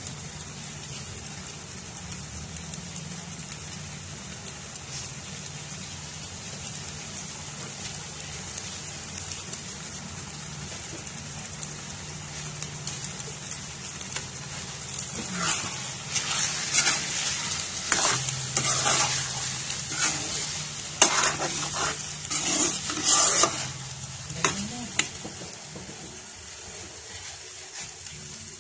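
Rice and chicken sizzling in a nonstick wok with a steady hiss. From about halfway, a metal spoon stirs and scrapes the rice against the pan in a run of strokes, then settles back to the sizzle. A low steady hum runs underneath.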